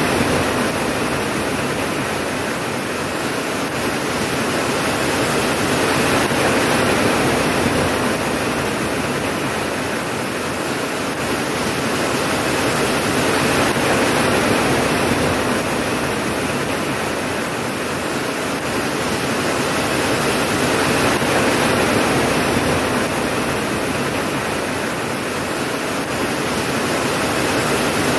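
Steady rain, a dense even hiss that swells and eases slowly about every seven seconds.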